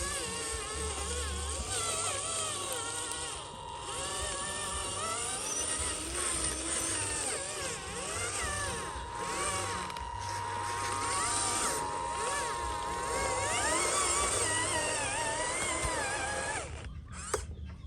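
Electric motors and gearboxes of radio-controlled model trucks whining, several pitches rising and falling as they change speed, with a brief dip near the end.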